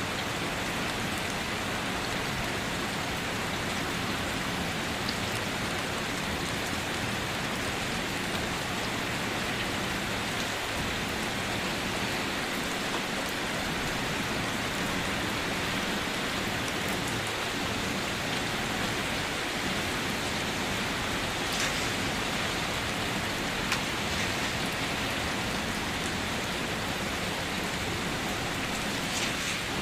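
Steady rain falling on a surface, an even, dense hiss with a few faint drop ticks.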